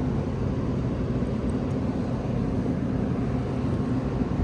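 Steady low mechanical drone with a faint hum in it, unchanging throughout, typical of running equipment near the unit being worked on.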